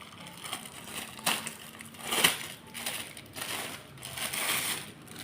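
Packaging being handled and crumpled: irregular crinkling and crushing, with a sharp crackle a little over two seconds in and a longer rustle near the end.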